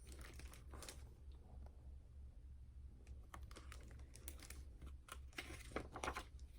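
Faint handling of a picture book: scattered light clicks and paper rustles as its pages are turned, growing busier about halfway through.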